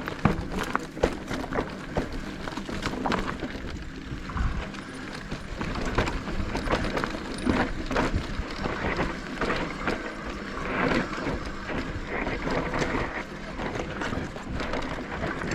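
Mountain bike rolling over a rough dirt trail: a constant rattle of irregular knocks and clicks over tyre noise.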